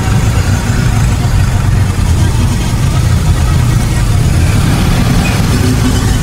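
Road traffic in a jam: vehicle engines running and idling, a steady low rumble.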